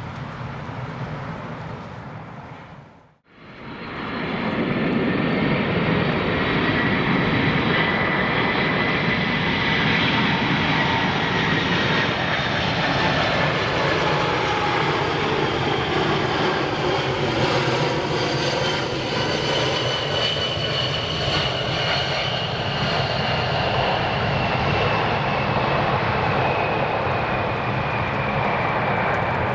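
Boeing 747-400F freighter's four jet engines on landing approach: a loud, steady rumble with a high whine that slowly falls in pitch as the aircraft passes. About three seconds in, the sound briefly drops out at an edit cut, then fades back up.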